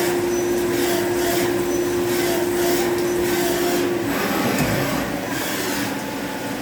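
CNC machining centre drilling: a steady hum from the machine with a regular pulsing hiss, about two to three pulses a second. The hum stops about four seconds in.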